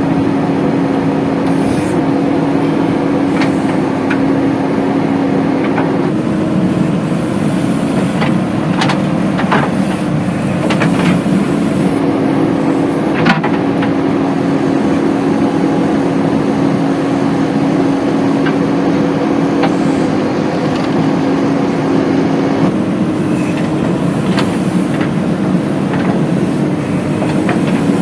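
Heavy diesel machinery engine running steadily at a constant speed during mud loading into a tractor trolley, with a few sharp knocks partway through.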